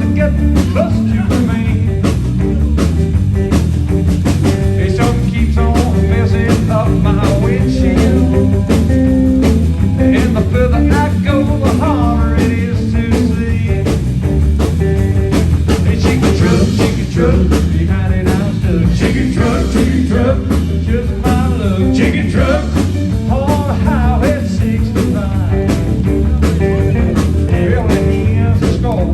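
A band playing a bluesy country-rock song, with guitar over bass and a steady drum beat.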